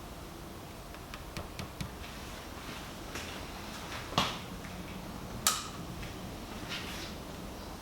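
Scattered handling noises: light clicks and knocks, with two sharper knocks about four and five and a half seconds in.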